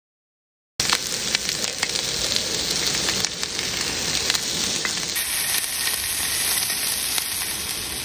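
Chicken pieces frying on a multi griddle pan: a steady sizzle with scattered small crackles. It starts suddenly about a second in, after near silence.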